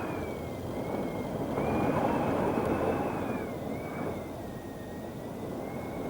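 Strong, blustery wind gusting over 40 mph, a steady rushing roar that swells for a couple of seconds and then eases. A thin whistle wavers up and down in pitch above it.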